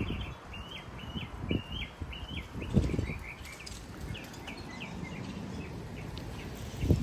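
Gusty wind, around 40 mph, rushing through leafy trees, with low blasts of wind buffeting the microphone, the strongest near the middle and at the end. A bird sings a run of quick repeated chirping notes throughout.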